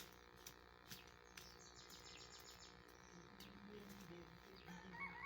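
Faint outdoor ambience with birds chirping: scattered sharp clicks, a quick run of high ticks about two seconds in, and a short bird call near the end.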